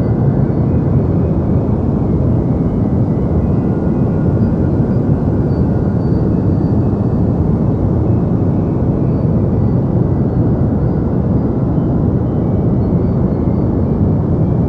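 Deep white noise for sleep: a steady, even hiss weighted toward a low rumble, with little treble, never changing.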